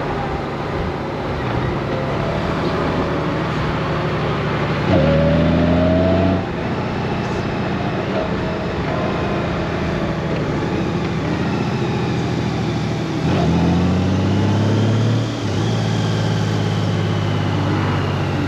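Honda Gold Wing's flat-six engine running under way, over steady road and wind noise. Twice, about five seconds in and again about thirteen seconds in, the engine note jumps louder and climbs in pitch for a second or two, then drops back.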